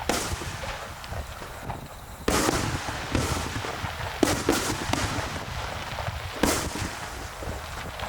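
Aerial fireworks shells bursting overhead: a series of sharp bangs with rolling echoes, the heaviest a little over two seconds in, about four seconds in and about six and a half seconds in, with smaller pops between.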